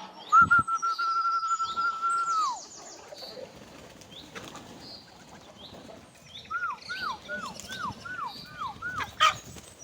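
Birds calling: small high chirps throughout, a long steady whistle for about two seconds that drops away at its end, and later a run of seven quick falling whistled notes. A single sharp click comes near the end.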